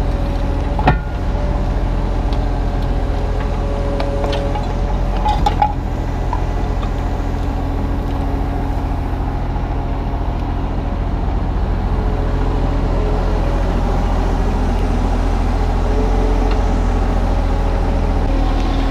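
Kubota U35-3 mini excavator's diesel engine running steadily under load, with hydraulic whine that shifts in pitch as the boom and bucket move. A sharp knock comes about a second in and another around five and a half seconds.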